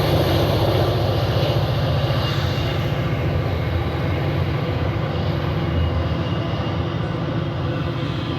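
Freight train passing through the station: a steady diesel locomotive engine drone over the rumble of the rolling train, slowly fading.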